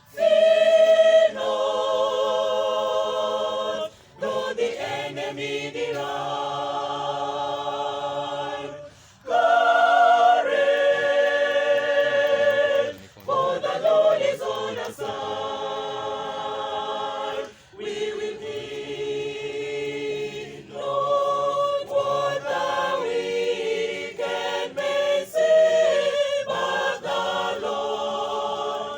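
A cappella choir singing a hymn in held chords with vibrato, phrase by phrase, with short breaks between the phrases.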